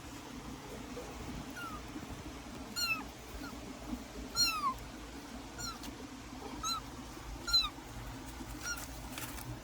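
Kitten mewing: a series of about seven or eight short, high-pitched mews, each falling in pitch, spaced roughly a second apart, the loudest about four and a half seconds in.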